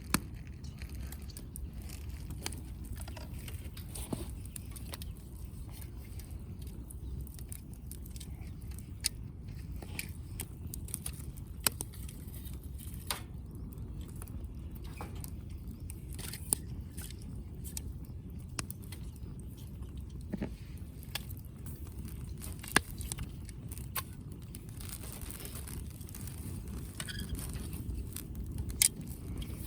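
Wood fire burning in a fire stand, crackling with scattered sharp pops over a steady low rumble.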